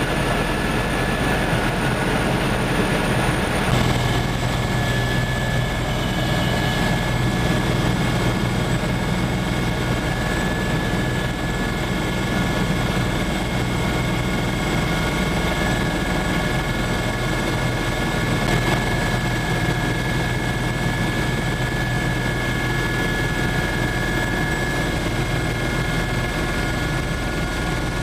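Helicopter turbine and rotor noise heard from on board: a steady, loud roar with a constant high whine and low hum. The whine shifts slightly about four seconds in.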